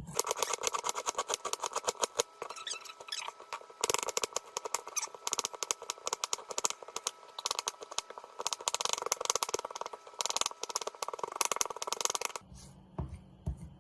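Knife chopping ginger on a cutting board in quick, rapid strokes that stop about a second before the end.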